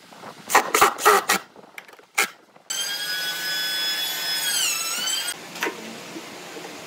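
A handful of sharp knocks on wood, then an electric power tool's motor whining steadily. The whine dips in pitch briefly under load about two-thirds of the way through, then cuts off, leaving a fainter low hum.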